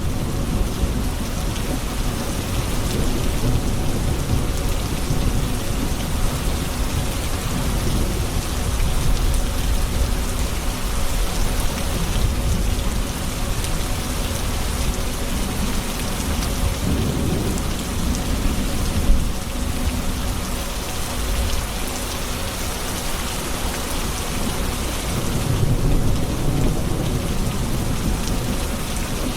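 Steady heavy rain falling, with low rolling thunder swelling up twice, about halfway through and again near the end. A single sharp tap stands out about two-thirds of the way in.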